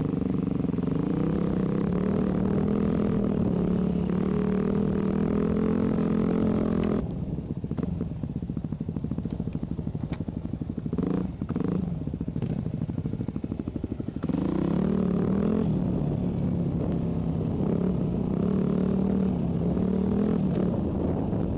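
Enduro dirt bike engine running steadily under load on a trail. About seven seconds in it drops to low, evenly pulsing revs, and about fourteen seconds in it picks up to a steady pull again.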